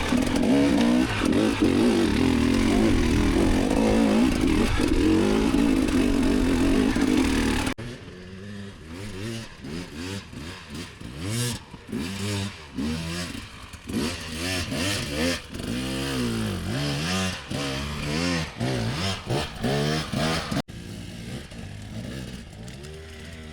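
Enduro dirt bike engine revving hard under load for about eight seconds. After a sudden cut, it is quieter and revs up and down in repeated short bursts of throttle. It cuts again to a quieter, lower engine sound near the end.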